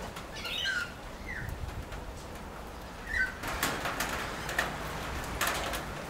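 Birds calling, a few short warbling notes in the first half, then several brief rustling flaps in the second half.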